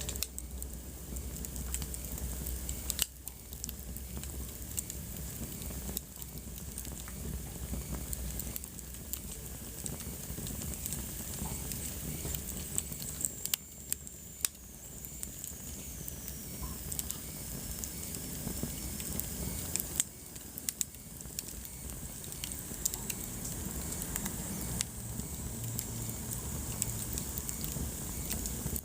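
Wood fire burning in a fireplace, crackling and popping with irregular sharp snaps over a steady hiss of flames.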